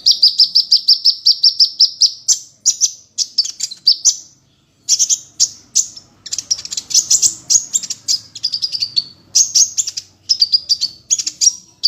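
A songbird singing loud, high-pitched song: a fast, even trill of rapidly repeated notes for about two seconds, then a string of short, quick chattering phrases with brief pauses between them.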